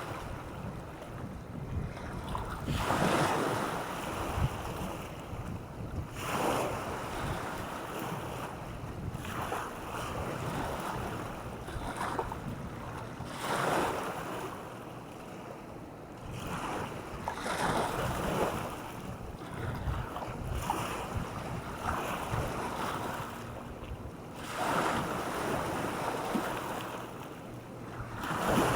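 Waves breaking and washing up a beach, surging every two to four seconds, with wind rumbling on the microphone.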